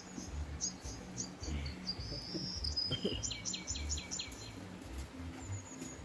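A songbird singing high, thin chirps and a held note, then a quick run of about six chirps around three seconds in.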